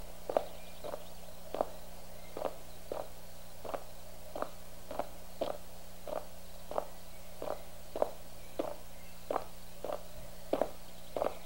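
Footsteps of two people walking at an even pace on a paved street, about one and a half steps a second, over a steady low hum.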